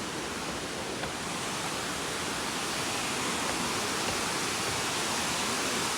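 Waterfall rushing: a steady, dense roar of falling water, growing slightly louder over the few seconds.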